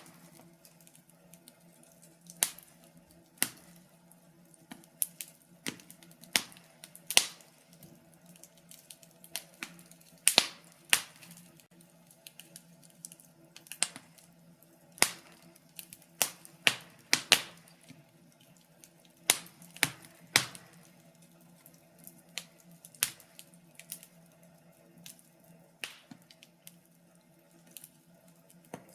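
Wood fire crackling: irregular sharp pops and snaps at uneven intervals, a few much louder than the rest, over a faint steady low hum.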